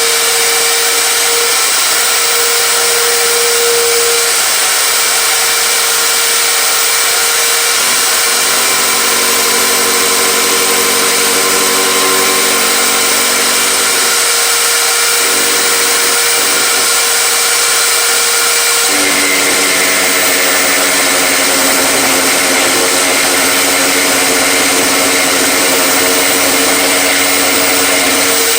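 An electric power tool running steadily without pause, its tone changing twice along the way.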